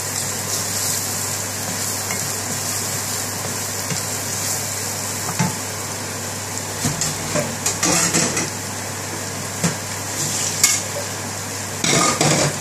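Diced potato and onion frying in oil with spices, a steady sizzle, while a wooden spoon stirs and scrapes around the frying pan in short bursts, most of all about two-thirds through and again near the end.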